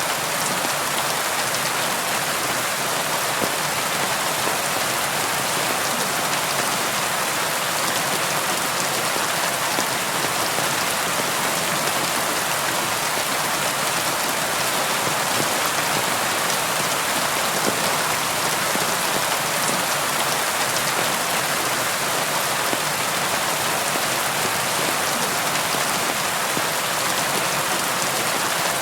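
Steady rain falling on a surface, an even hiss of many fine drops with no thunder.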